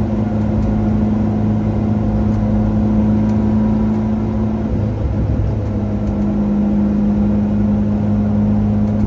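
Lancia Delta Integrale Group A rally car's turbocharged four-cylinder engine running at steady revs on the move. Its note breaks briefly about five seconds in, then settles back to a steady pitch.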